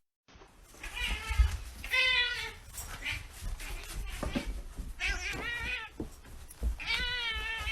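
A cat meowing repeatedly: about four drawn-out meows with a wavering pitch.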